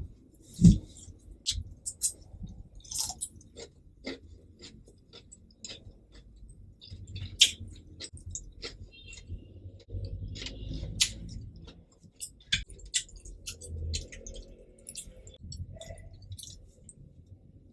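Close-miked chewing of cheesy Samyang carbonara fire noodles: wet mouth smacks and clicks come irregularly throughout, with a dull thump about a second in.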